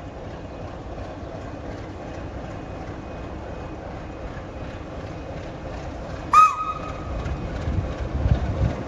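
Train running on the track with a steady rumble. About six seconds in, a sudden short high-pitched tone cuts through and is the loudest sound; low, uneven thudding rumbles follow near the end.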